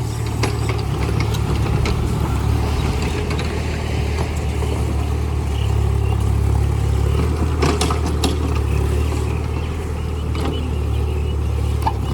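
Mini JCB's engine running steadily under work, with a few short metallic knocks about two-thirds of the way through.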